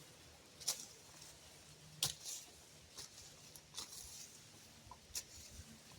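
Digging in garden soil while searching a sweet potato hill: about five short, sharp scrapes and crunches, irregularly spaced, with quiet between them.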